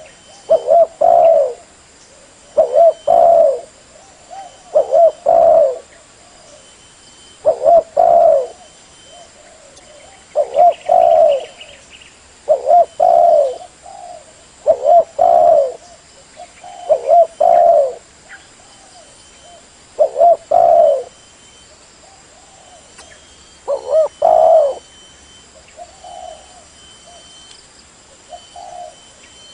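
Spotted dove (terkukur) cooing: a low, hoarse phrase of two or three notes repeated about ten times, every two to three seconds.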